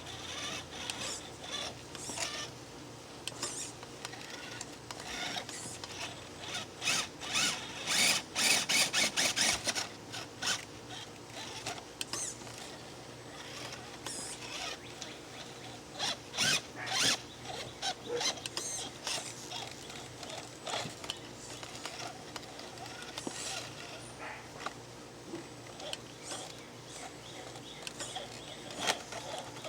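Small geared drivetrain of a crawler truck working in short bursts of whirring and clicking, with rattles and ratcheting clicks. It is busiest about a third of the way in.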